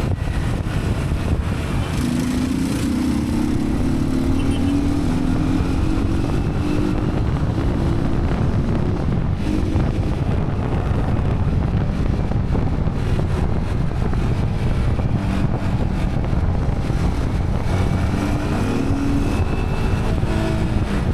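Yamaha WR155R's single-cylinder 155cc engine running under way, its pitch rising as the bike accelerates, twice, with wind noise on the microphone.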